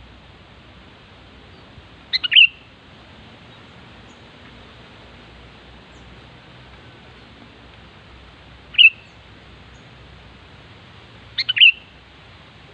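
Sooty-headed bulbul calling in three short bursts a few seconds apart, each a quick cluster of clear notes, over a steady faint hiss.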